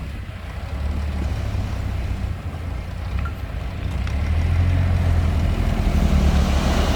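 Diesel engine of a heavy construction machine running, mostly low-pitched, getting louder about four seconds in.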